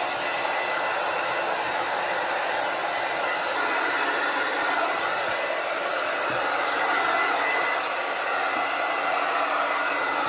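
Handheld hair dryer blowing steadily, a constant airy rush with a faint motor whine, drying freshly washed hair.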